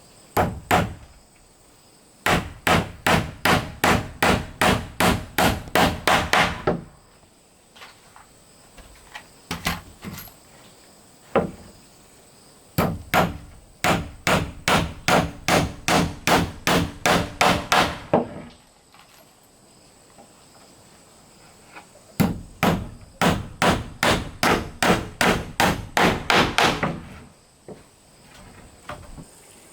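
Hammer blows on wood in three long runs of quick, even strikes, about three a second, with pauses and a few lighter taps between the runs.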